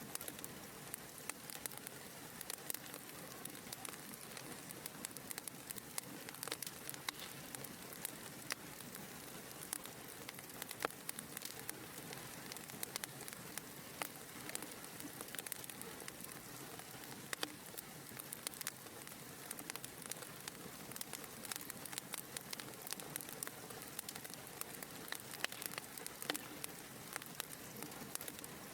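Wood fire burning in a fireplace, with a steady soft hiss and many small irregular crackles and pops.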